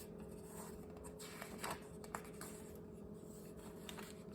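Faint paper rustling with a few light clicks, a picture book's pages being handled, over a low steady hum.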